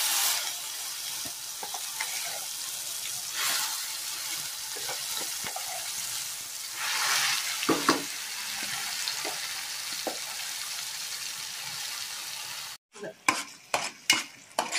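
Ground tomato chutney paste sizzling as it is scraped from the mixer jar into hot tempering oil, the frying hiss surging a few times as more paste drops in. Near the end the sizzle cuts off suddenly and is followed by sharp scrapes and taps of a spatula against the pan as the paste is stirred.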